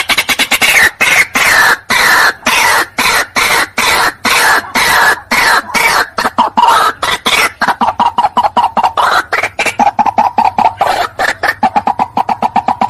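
White-breasted waterhen calling: a loud, fast, unbroken series of harsh repeated notes, several a second.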